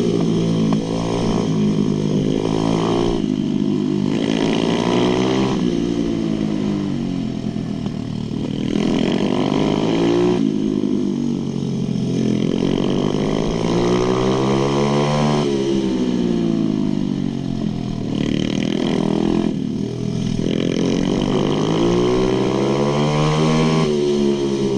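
Pit bike engine at full throttle around a track. Its pitch climbs steeply with brief drops as the rider shifts up, then falls sharply under braking into corners, over and over.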